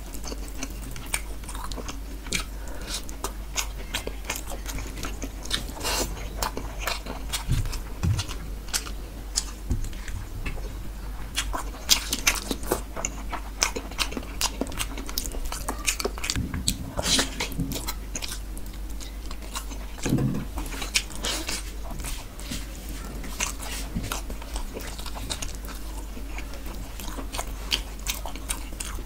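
Close-miked eating: a man chewing and biting mouthfuls of rohu fish curry and rice, with many irregular short wet clicks and crackles. A steady low hum sits underneath.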